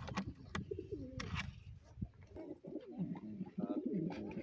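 Pigeons cooing, low warbling coos that overlap and grow denser from about halfway in, with a few sharp clicks in the first half.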